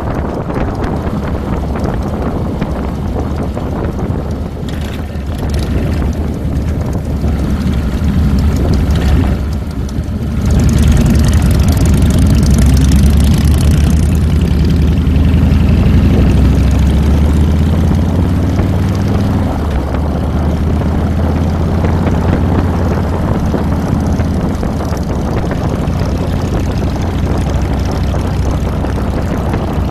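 2007 Harley-Davidson Fat Boy's Twin Cam 96 V-twin engine running under way, with wind on the microphone. About ten seconds in the engine gets louder and its pitch rises for several seconds as the bike accelerates, then it settles.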